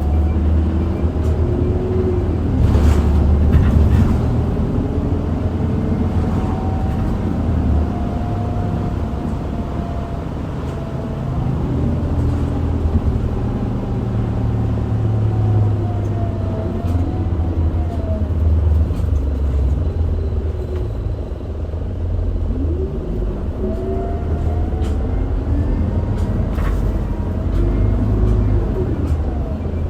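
Inside an Isuzu Erga city bus on the move: a steady low rumble from its diesel engine and road noise, with a whine from engine and drivetrain that rises and falls several times as the bus speeds up and slows down.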